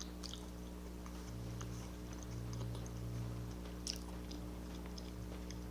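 Faint chewing and small wet mouth clicks of someone eating soft mashed potatoes, with a slightly louder click about four seconds in, over a steady low hum.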